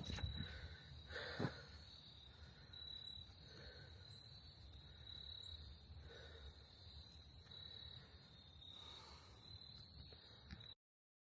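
Faint insects chirping in a steady high trill, with a few soft footsteps on a woodland path in the first couple of seconds. The sound cuts off abruptly near the end.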